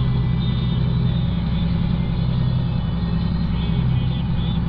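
Vehicle engine running steadily, a constant low drone with no change in speed.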